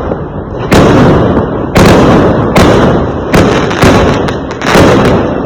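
Fireworks exploding: a series of five or six loud bangs, roughly one a second, each trailing off in a rolling rumble.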